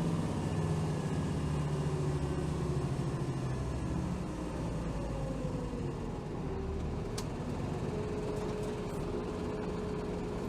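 Hino Rainbow HR city bus heard from inside the cabin, its diesel engine running as the bus slows: a whine falls in pitch about halfway through, then settles into a steady hum.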